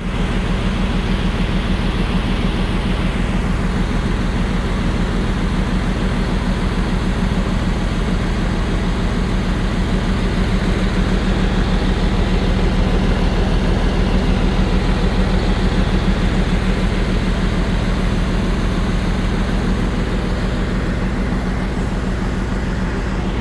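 Heavy equipment running steadily: a constant machine drone from the engine and winch drum, without let-up.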